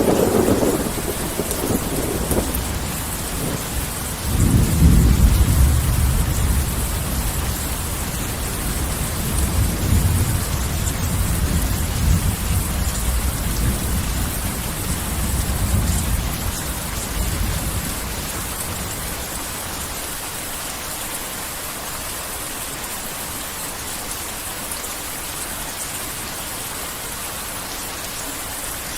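Heavy rain falling steadily with thunder: a crack right at the start, then a long low rumble that rolls from about four seconds in and dies away by about eighteen seconds.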